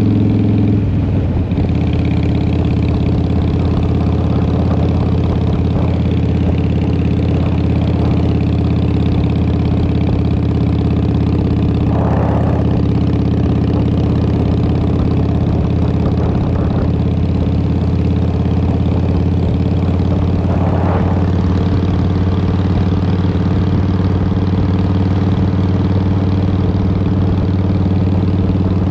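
Harley-Davidson Fat Boy's Twin Cam 88 V-twin running steadily through Vance & Hines exhaust pipes. The engine note shifts about a second in, then holds even.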